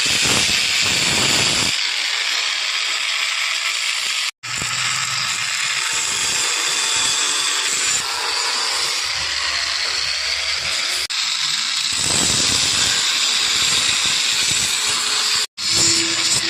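Electric arc welding: the arc gives a steady hiss, cut off for an instant about four seconds in and again near the end.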